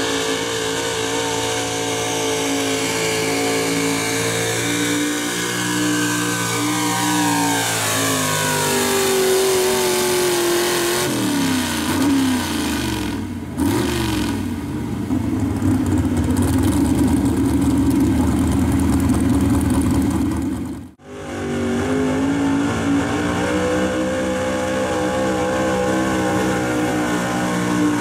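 Gas-powered 4x4 pulling truck engines running hard at high revs. About a third of the way in the revs sag and fall as the engine comes under load; after a sudden break the engine note returns steady.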